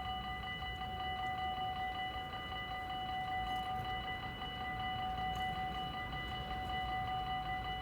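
Dutch level-crossing warning bell ringing steadily, a fast, even run of clear bell-like strikes.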